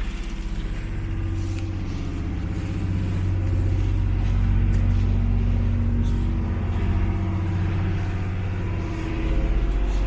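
Boat engine running steadily with a low, pulsing drone, growing a little louder a few seconds in.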